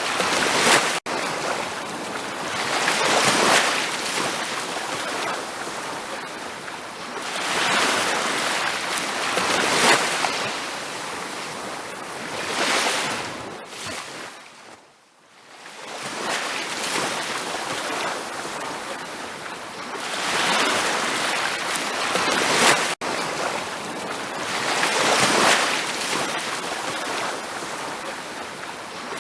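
Ocean surf washing onto a beach, the rush of the waves swelling and ebbing every few seconds. About halfway through the sound fades almost to nothing for a moment, then the waves return.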